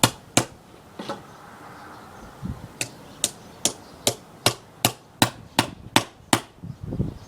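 Hammer striking a wood chisel cutting into a log, hollowing out a trunk beehive. Two blows, a pause of about a second and a half, then a steady run of about ten sharp taps, roughly two and a half a second.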